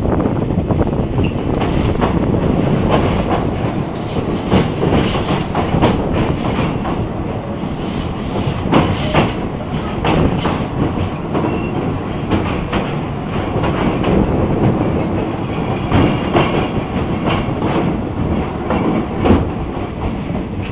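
Passenger train running along the track, heard from an open carriage window: a steady rumble of wheels on rails with repeated clacks as the wheels cross rail joints.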